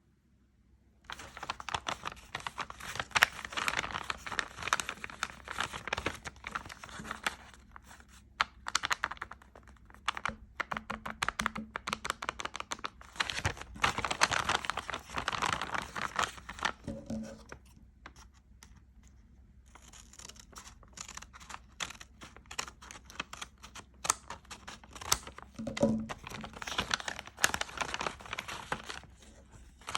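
Close, dense crinkling and crackling with rapid clicks, coming in stretches of several seconds separated by short quieter pauses.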